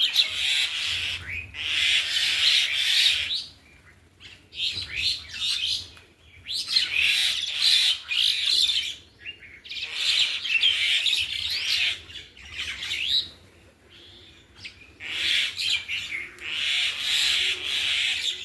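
A group of small birds chirping and twittering in busy bouts of a few seconds each, with short pauses between them.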